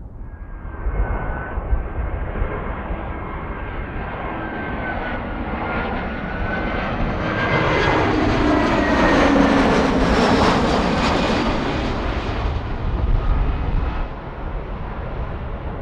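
Jet airliner flying past close, its engine whine and rumble swelling to a peak about nine to ten seconds in, then fading as it moves away.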